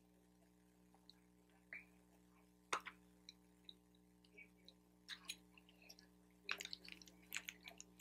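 Soft, close-miked chewing and wet mouth clicks of someone eating lo mein noodles. A few scattered clicks and one sharp click come early, then a dense run of chewing sounds in the last second and a half.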